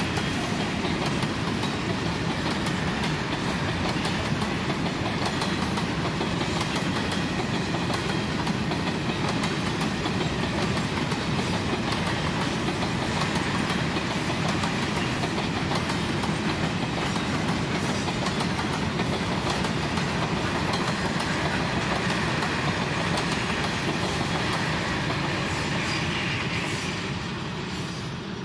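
Empty grain hopper wagons rolling past on steel rails: a steady rolling noise with clicks of the wheels over the rail joints. The sound drops away near the end as the last wagon goes by.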